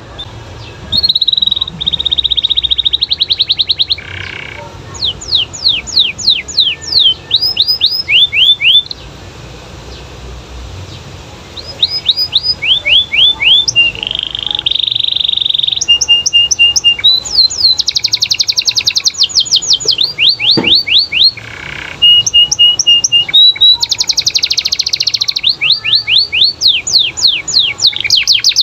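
Domestic canary singing a loud, vigorous song: fast trills and runs of quickly repeated downward-sweeping whistle notes. There is a short lull about a third of the way in before the song resumes.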